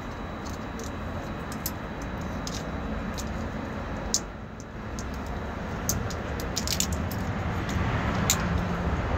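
Scattered light clicks and crackles of hands working at a wiring-harness loom, thickest in the last few seconds, over a steady low background rumble.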